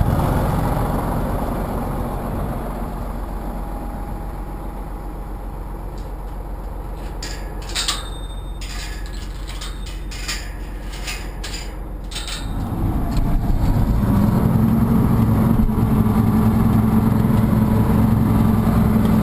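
Tractor engine running: it eases down for several seconds while a string of sharp clicks and rattles sounds, then picks up again to a louder, steady drone about two-thirds of the way through.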